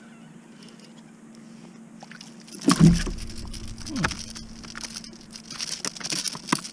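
Handling noises on a kayak: after a quiet stretch, a loud thump about three seconds in, another about a second later, then a run of sharp clicks and knocks over splashing water.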